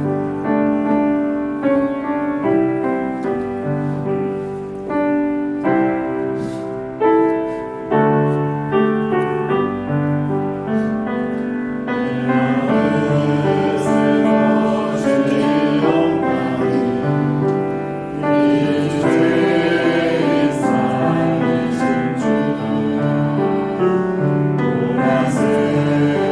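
Church praise team performing a worship song: a piano or keyboard plays the introduction, and singers come in about halfway through, singing over the keyboard.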